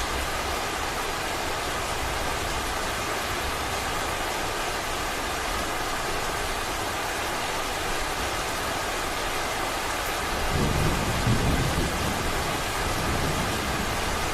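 Heavy rain falling steadily. About ten seconds in, a low rumble of thunder rises beneath it.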